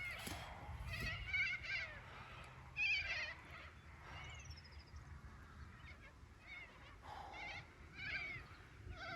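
Birds calling repeatedly, in clusters of harsh, wavering calls about a second apart, with a short falling whistle about four seconds in.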